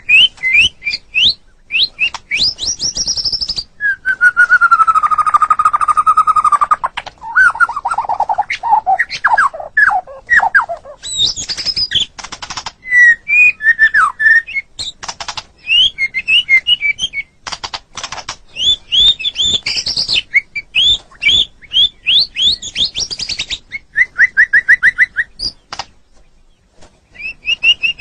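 White-rumped shama (murai batu) singing a varied song of rapid chirps and trills. About four seconds in comes a long, slightly falling whistle, followed by quick phrases of repeated notes with short breaks between them.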